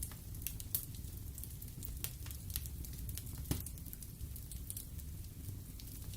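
Wood fire burning in a fireplace: a steady low rumble of flame with frequent small crackles and pops of the burning logs, a couple of them sharper than the rest.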